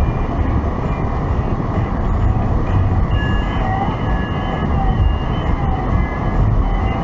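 Car interior road noise while driving: a steady low rumble of engine and tyres heard from inside the cabin.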